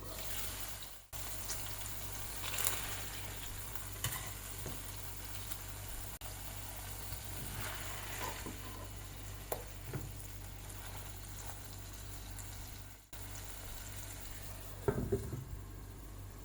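Beef hamburger steak patties sizzling steadily in oil in a frying pan, with a few light clicks and scrapes of a cooking utensil against the pan, a louder cluster of them near the end. The sizzle briefly cuts out twice.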